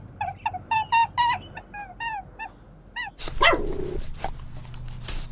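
A dog, likely a puppy, yelping in a quick series of short, high, falling yips. About three seconds in, a louder, harsher call breaks in over a low hum.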